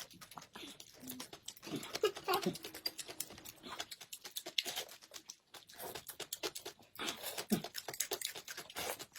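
Close-miked eating sounds: quick, irregular wet mouth clicks and chewing.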